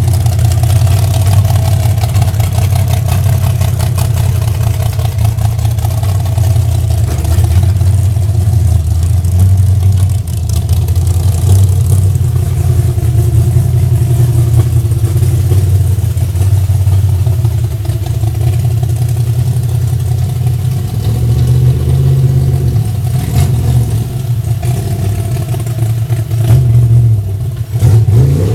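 Chevy Nova drag car's engine running loudly at idle, its note wavering up and down, with a quick rev right at the end.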